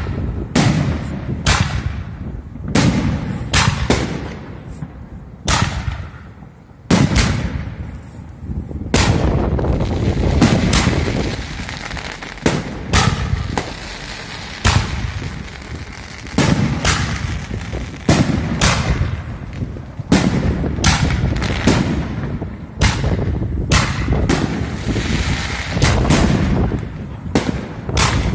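A 47-shot fireworks cake with 63, 75 and 100 mm tubes firing in quick succession: a string of sharp launch thumps and bursting shells, roughly one or two a second, with crackling between them.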